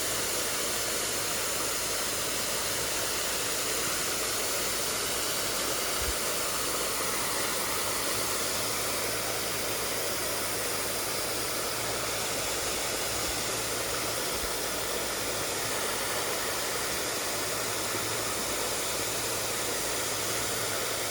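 Mountain stream water rushing steadily, an even hiss with no break.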